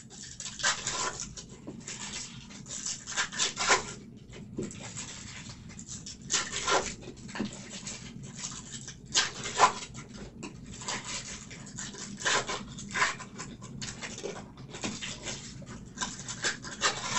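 Irregular rustles, taps and clicks of trading-card packs, cards and packaging being handled and opened on a table.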